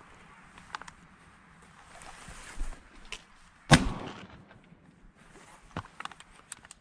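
A single shotgun shot about three and a half seconds in, echoing briefly, among a few faint clicks and knocks.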